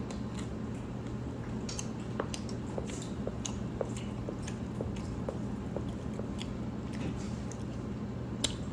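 Close-up eating sounds: a person chewing beef and noodles, with many small wet mouth clicks over a steady low hum. One sharp click comes near the end.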